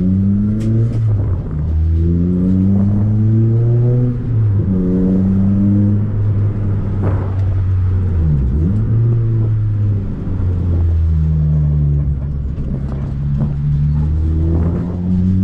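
Toyota Corolla T-Sport's four-cylinder engine heard from inside the stripped-out cabin, pulling up through the gears in town driving. Its note climbs, drops back at each gear change and climbs again, several times over.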